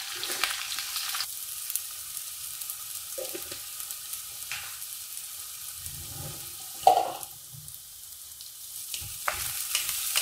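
Chopped onion, green chilies and ginger sizzling in hot oil in a pan and being stirred with a wooden spatula, with scattered clicks. One sharp knock about seven seconds in is the loudest sound.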